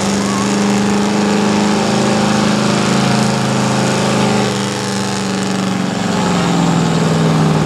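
Engine of a pickup truck in a truck pull, held at high, steady revs while pulling. Its pitch drops a little near the end.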